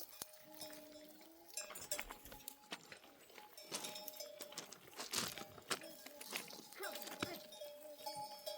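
Bells worn by a grazing flock of sheep and goats clinking and ringing irregularly as the animals move. A single wavering bleat sounds in the first second and a half.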